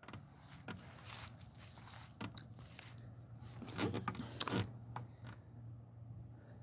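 Faint footsteps and clothing rustle of a person walking, uneven, with a few louder scuffs about four seconds in, over a low steady hum.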